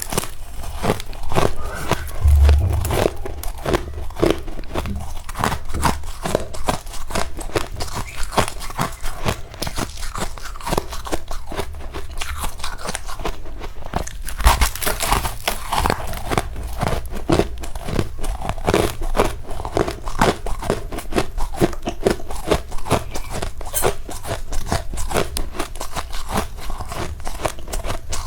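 Close-up crunching and chewing of powdery freezer frost, a dense run of soft, irregular crunches with a heavier bite about midway.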